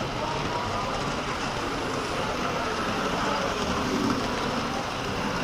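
A model train running along its layout track with a steady rolling rumble, over the even background hubbub of a busy exhibition hall.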